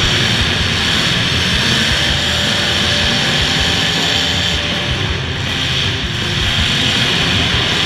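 Loud, steady din of several demolition derby cars' engines running hard, a rough mechanical rumble that eases off slightly for a moment past the middle.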